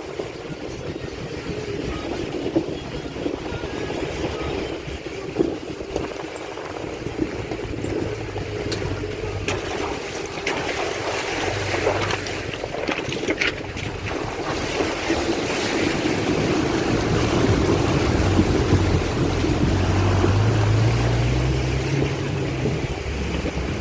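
Rushing water of a mountain river, with wind buffeting the microphone. In the second half a low hum comes in and rises in pitch for a few seconds.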